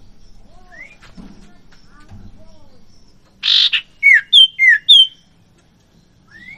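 Caged common ioras (sirtu, cipoh) calling: soft scattered chirps, then a loud harsh rasping note followed by four loud downward-slurred whistles alternating between a lower and a higher pitch.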